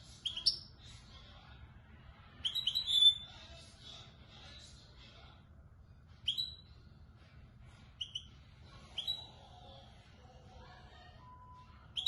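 Young European goldfinch singing in the Moroccan 'Marrakchi' style: short bright twittering phrases, the longest about two and a half seconds in, separated by pauses of a second or more. A faint steady low hum runs underneath.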